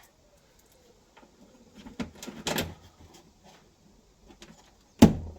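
Clunks and light metallic taps of a bolt and washers being worked into a hole in a Land Rover Defender's rear seat box, with a cluster of knocks about two seconds in and one loud thump near the end.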